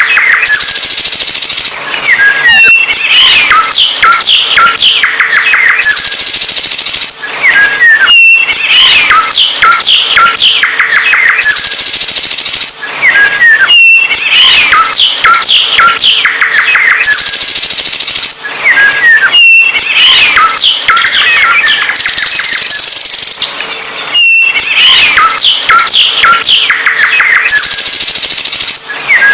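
Songbird singing a loud, busy song of fast trills, chirps and whistled notes. The same phrase sequence repeats about every five and a half seconds, as in a looped recording.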